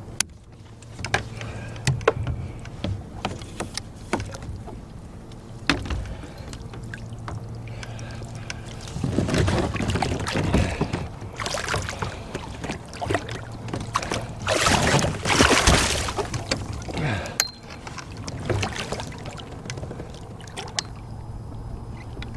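Water splashing from a netted muskie beside a kayak, with scattered knocks and clicks of gear against the boat, over a steady low hum. The splashing comes in two louder spells, about nine seconds in and again around fifteen seconds.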